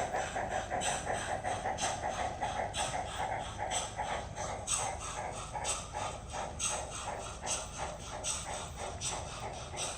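LokSound 5 DCC sound decoders in model NSWGR steam locomotives, a 58 class and an AD60 Garratt double-heading, playing steam exhaust chuffs. The strong beats come about once a second with softer beats between, over a steady rumble that slowly fades.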